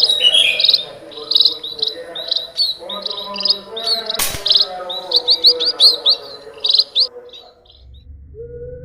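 Small birds chirping busily in quick repeated notes, with a single sharp crack of an air rifle shot about four seconds in. Near the end the chirping stops and a steady low tone takes over.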